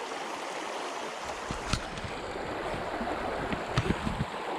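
Creek water rushing steadily through a fast current, with a few light clicks and knocks about two seconds in and again near the end.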